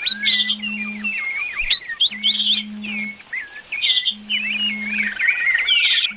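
Several small birds chirping and twittering busily together, in quick, overlapping high calls. Under them a low steady hum comes and goes, about a second on and a second off.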